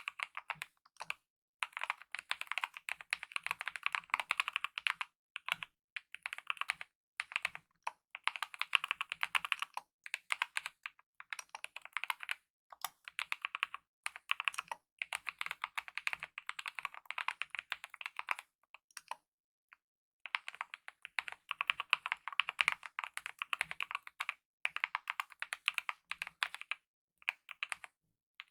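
Fast typing on a Kemove mechanical keyboard with lubed optical red linear switches and DSA-profile keycaps: dense runs of light key clacks in bursts of a few seconds, with brief pauses between them and a longer pause of about a second and a half a little past the middle.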